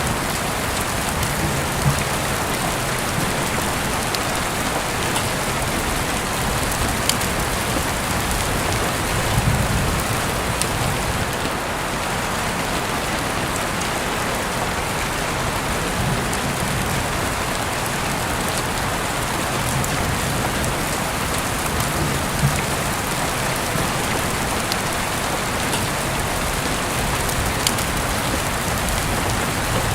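Heavy rain falling steadily, with sharp drip taps now and then and soft low rumbles every few seconds.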